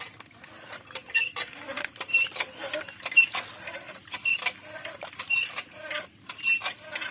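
A mechanism squeaking and clicking in a slow, even rhythm: six sharp squeaks about a second apart.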